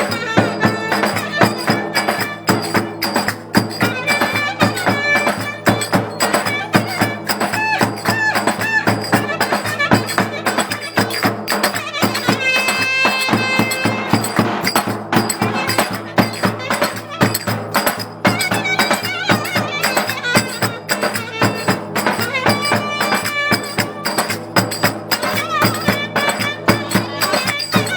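Traditional folk music with a fast, steady percussion beat under a melody line.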